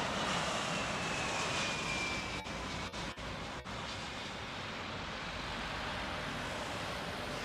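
Super Air Jet airliner's jet engines: a steady rush with a high whine that slowly falls in pitch and fades as the plane passes.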